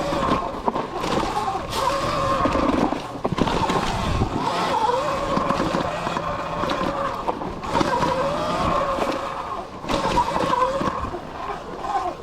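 Sur Ron X electric dirt bike's motor whining, its pitch rising and falling with the throttle, over rumble and rattling knocks from the bike bouncing along a rough dirt trail.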